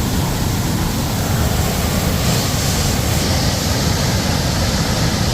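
Cedar Cliff Falls on Massie Creek, swollen with flood water and pouring over heavily: a steady, loud rush of falling water.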